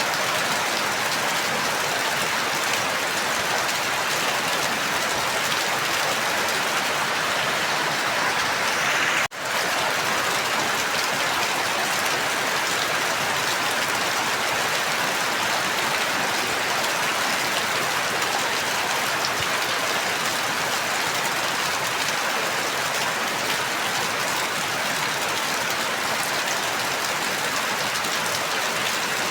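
Steady, dense rainfall, an even hiss of falling rain. It cuts out for a split second about nine seconds in, then carries on.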